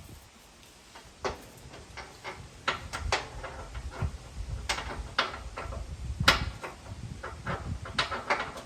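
Irregular short metal clicks and knocks from handling a bolt and hardware at a semi truck's shock absorber mount, the loudest knock about two-thirds of the way through.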